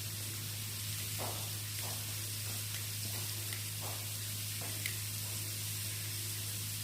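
Flour-coated mackerel frying in hot oil: a steady sizzle with a few faint pops, over a steady low hum.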